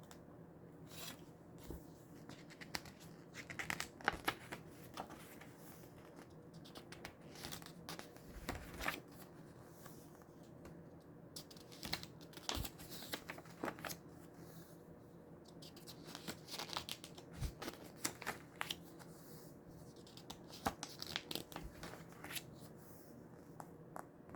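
A CD case and its paper booklet being opened and handled: irregular rustling and crinkling of paper and plastic, with scattered clicks.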